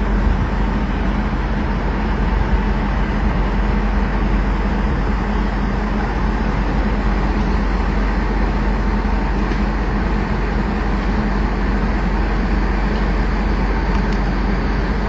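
Steady vehicle engine and road noise, a continuous low drone that keeps an even level throughout.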